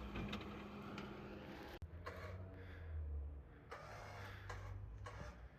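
Off-road vehicle engine running low and steady, with a few light clicks in the first second and an abrupt change in the sound about two seconds in.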